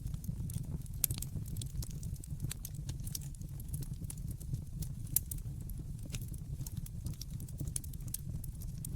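Wood fire in a fireplace crackling, with irregular sharp pops over a steady low rumble of burning. Two louder pops come about a second in and about five seconds in.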